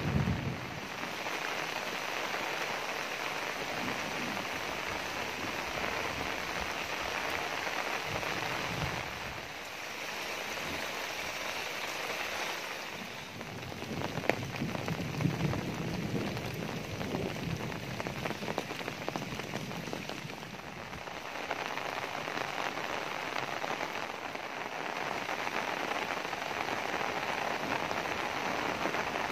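Heavy rain falling steadily, heavier and lighter in turns, with one sharp tap about fourteen seconds in.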